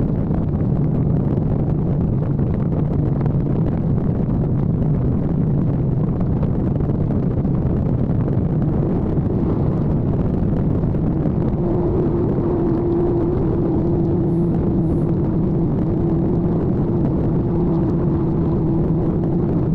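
Kawasaki ZX-14R's inline-four engine running at a steady cruise under a rushing haze of wind and road noise. About halfway through, a second, higher steady tone joins in.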